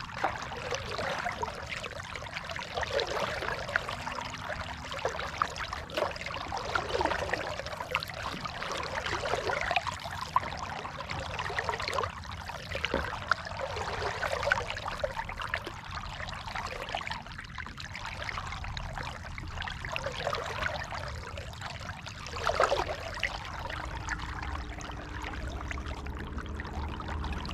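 Kayak paddle strokes: water splashing and trickling off the paddle blades in uneven swells, with many small drips. A low steady hum comes in near the end.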